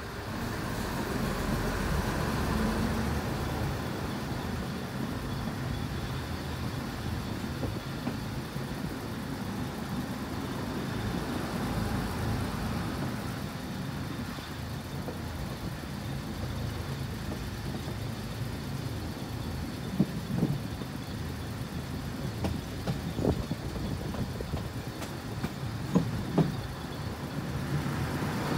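Fiat M4 diesel railcar's engine running as it pulls away from the station and rolls along the track, growing louder about a second in. A few sharp clicks, some in pairs, come near the end.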